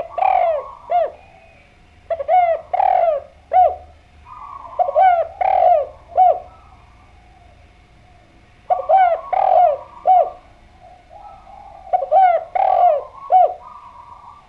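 Spotted dove (derkuku) cooing in repeated phrases of three or four notes, five phrases spaced a few seconds apart; a prolific 'gacor' call of the kind played to set other doves answering.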